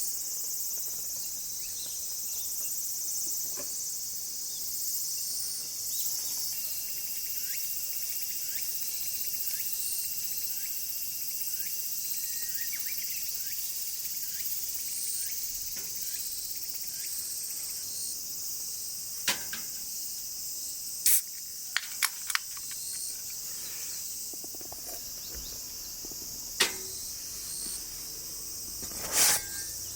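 Steady high-pitched chorus of crickets or other insects. Several sharp clicks come in the last third, two of them noticeably louder.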